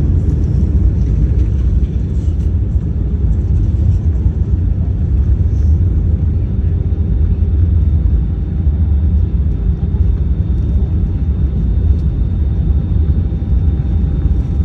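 Steady low rumble inside the passenger cabin of an Airbus A319-111 during landing: engine and airframe noise, with a faint steady high whine above it.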